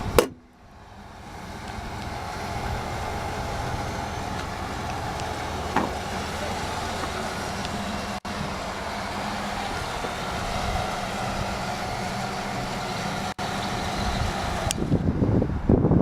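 A single sharp bang right at the start, then a steady rumble of road traffic noise. The rumble grows rougher and louder near the end.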